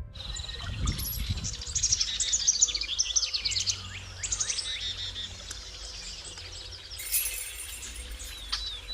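Several birds chirping, many quick falling calls overlapping one another.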